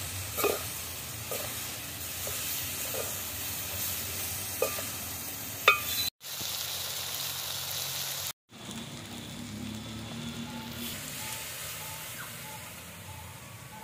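Meat frying in hot oil in an aluminium pot with a steady sizzle, while a ladle is stirred through it and knocks against the pot several times in the first six seconds. The sound drops out briefly twice, about six and eight seconds in, and the sizzle is quieter afterwards.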